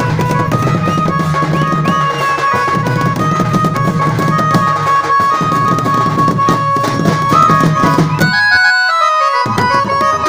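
Indian band music: drums under a held, droning melody line. Near the end the drums and bass drop out for a quick run of notes stepping down in pitch, then the drums come back in.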